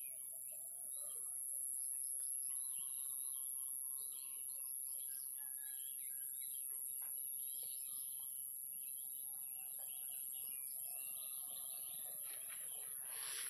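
Many wild birds chirping and calling over one another in a dense chorus, with a steady high-pitched whine underneath.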